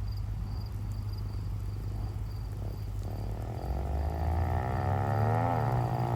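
Small 140cc dirt bike engine running low, then revved up from about three seconds in, its pitch climbing, dropping sharply near the end and climbing again, as at a gear change.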